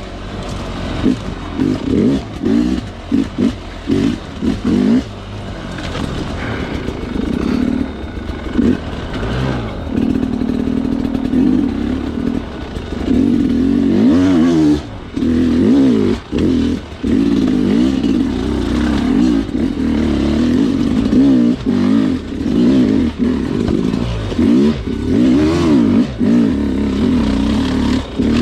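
Sherco two-stroke dirt bike engine on a technical trail: a quick run of short throttle blips in the first few seconds, then steady running with the revs rising and falling as the rider works over the terrain.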